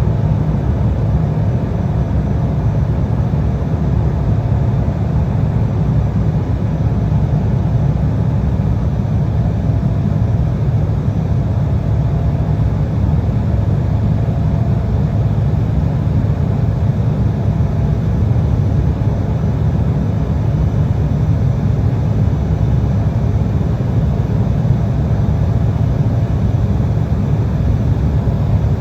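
Steady cabin noise of an Embraer 175 regional jet in cruise: a low, even rumble of airflow and its twin GE CF34 turbofan engines, with faint steady tones above it.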